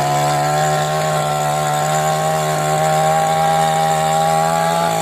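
A small engine running steadily at high speed, holding one pitch that edges slightly upward.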